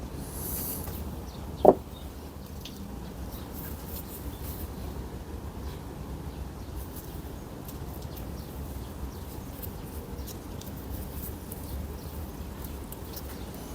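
Steady low background hum with faint scattered clicks, and one short, sharp knock a little under two seconds in.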